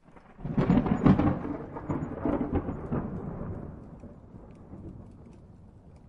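A close thunderclap: a sharp, crackling crash about half a second in and further cracks around two to three seconds, followed by a rumble that slowly fades.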